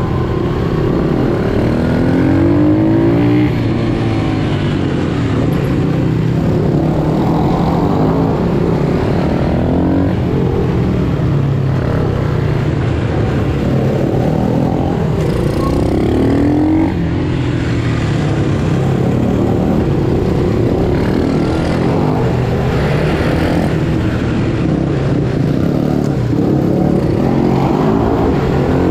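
Pit bike engines running hard on a track, revving up in rising sweeps several times as the bikes accelerate, over a steady engine drone.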